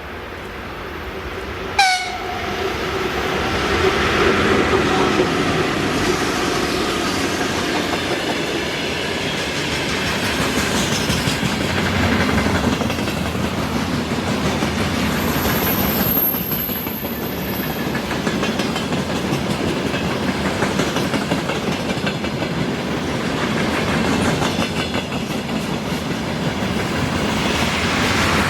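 Electric-hauled train passing close by, with sustained rumbling and clickety-clack of wagon wheels over the rail joints. A short, sharp horn blast sounds about two seconds in as the locomotive arrives.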